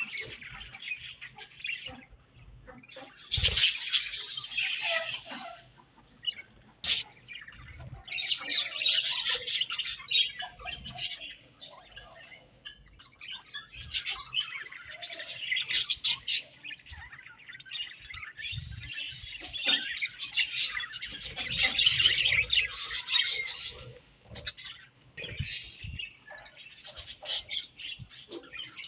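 A flock of budgerigars chattering and chirping together, in busy bouts a few seconds long with quieter gaps between.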